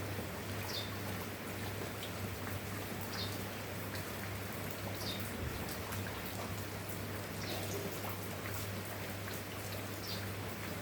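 Steady rain falling, a dense even hiss with fine drop ticks, over a low steady hum. A short high falling chirp repeats about every two seconds.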